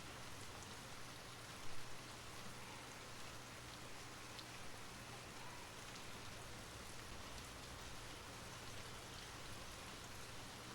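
Steady rain falling on surfaces, with scattered individual drops ticking through the hiss, and one brief louder tap just under two seconds in.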